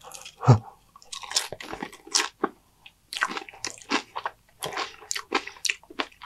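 Crunching and chewing through a big mouthful of Doritos nachos, the tortilla chips topped with cheese, seasoned meat and lettuce: a quick, irregular run of crisp crunches.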